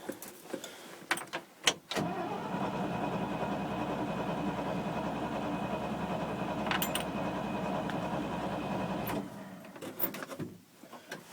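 Freshly primed engine turning over and running for about seven seconds from about two seconds in, then stopping abruptly, a few clicks before it. This is a cold start after a year unused, and the owner finds the choke stuck.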